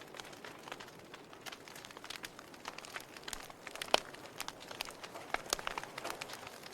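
Wood fire crackling: irregular sharp pops and snaps over a faint steady hiss, one louder pop about four seconds in.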